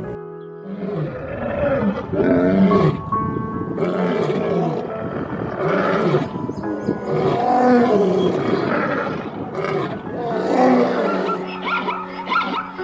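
A large animal calling again and again, loud drawn-out calls that each rise and fall in pitch, over steady background music.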